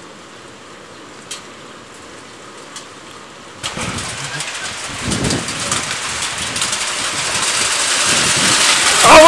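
A storm downpour hits suddenly about four seconds in: heavy rain, driven by wind, comes on as a loud rushing hiss that keeps growing louder. Before it there are only a few scattered drop-like ticks.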